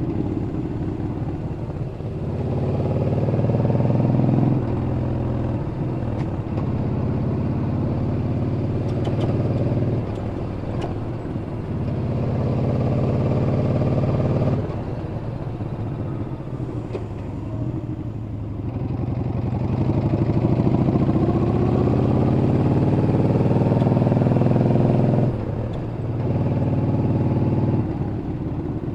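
Yamaha Bolt (XVS950CU) air-cooled V-twin motorcycle engine and exhaust under way, rising in pitch as it pulls and dropping suddenly as the throttle closes, three times.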